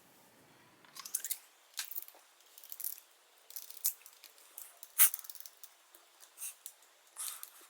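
Irregular small metallic clicks, clinks and scrapes of hand tools and a 110 main jet being screwed into a Honda CB550 carburetor, the loudest click about five seconds in.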